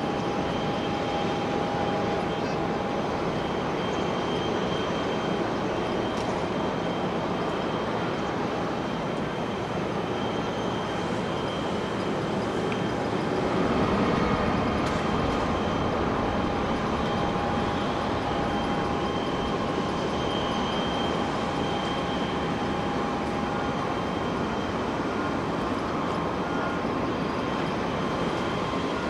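Airliner jet engines running at low power: a steady rumble with a held whine on top, swelling slightly about halfway through.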